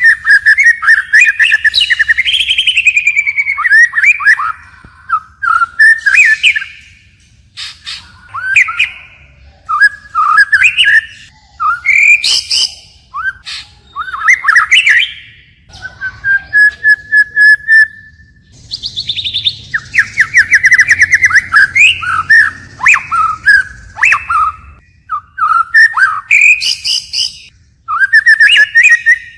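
White-rumped shama singing loudly, phrase after phrase with short pauses, changing its song all the time: rich whistles, quick trills and sharp high notes. A single long, steady whistle comes about halfway through.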